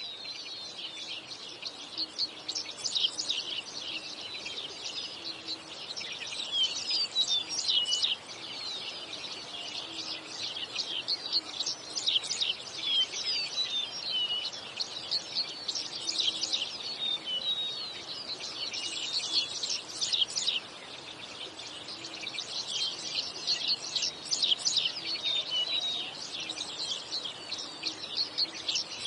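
Recorded birdsong: several songbirds singing at once, with quick chirps and trills overlapping continuously.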